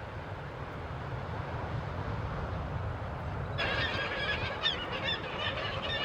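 Low wind rumble on the microphone, then about three and a half seconds in a flock of geese starts up suddenly, with many overlapping honking calls.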